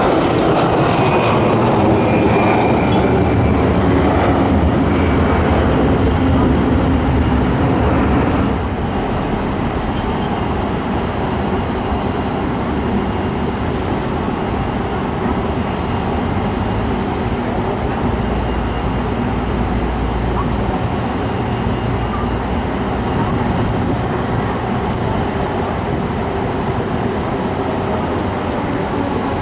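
Jet airliner engines running loud, with a falling whine over the first several seconds. About eight seconds in the sound drops suddenly to a somewhat quieter, steady rumble.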